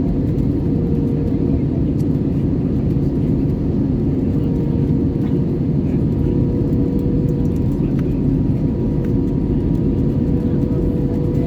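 Airbus A320-214 cabin noise: a steady, even rumble of airflow and CFM56 engines, with a faint constant hum.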